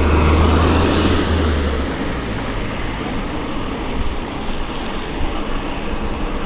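A motor vehicle passing close by on the road, its rumble and rush swelling at the start and fading within about two seconds, then a steady rush of wind on the microphone.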